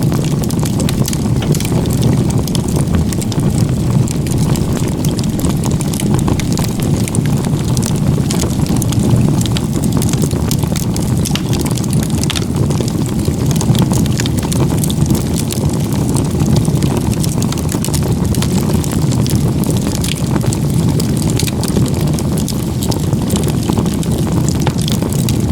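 Firewood campfire burning in a log-cabin (igeta-gumi) stack: a steady low rush of the flames with frequent small crackles and pops of the burning wood.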